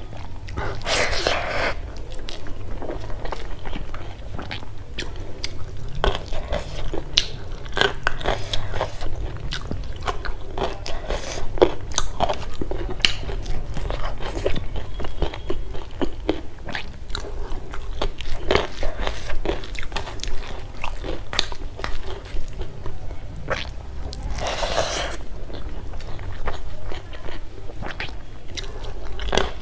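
Close-miked chewing and wet mouth sounds of someone eating a mouthful of hand-mixed rice, with dense irregular clicks and smacks. Her fingers squish and mix rice on a steel plate.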